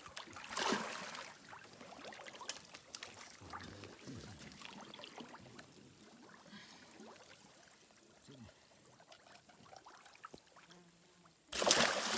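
Light water splashing and trickling, with a louder splash about half a second in and a sudden loud splash near the end.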